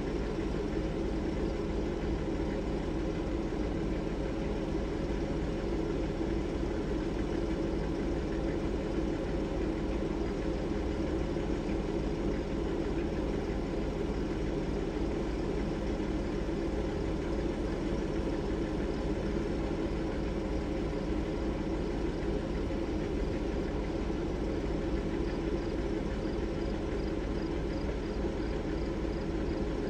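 Vehicle engine idling steadily, an even low hum with a regular low pulsing.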